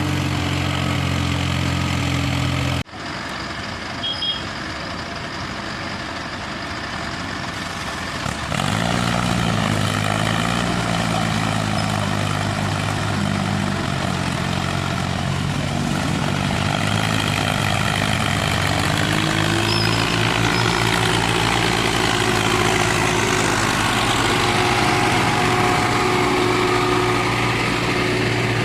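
Hindustan 60 tractor's diesel engine running steadily. It cuts abruptly about three seconds in, then about eight seconds in the revs rise and waver as the engine takes up load, and it pulls hard at a steady, higher note through the rest.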